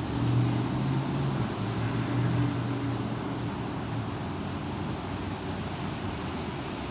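Strong wind rushing and gusting, louder in the first three seconds, with a low drone under the gusts.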